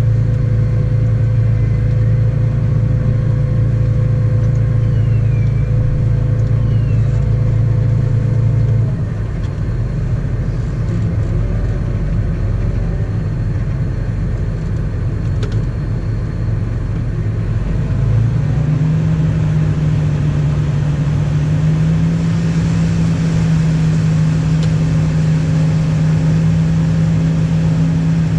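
A vehicle engine running steadily under load. Its pitch drops about nine seconds in and rises again a little past the halfway point, settling slightly higher.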